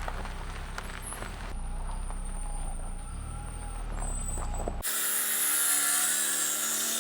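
Screeching from a Mitsubishi's rear wheels as the car moves slowly, over a low rumble. About five seconds in, the sound changes suddenly to a louder, hissier screech.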